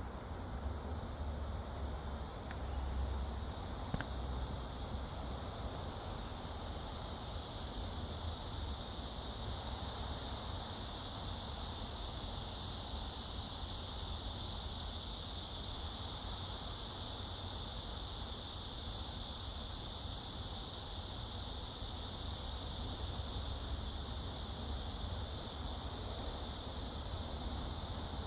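Steady, high-pitched chorus of insects, growing louder about eight seconds in and then holding steady.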